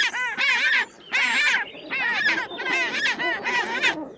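Penguins giving harsh, honking braying calls in rapid repeated bursts with short pauses between them.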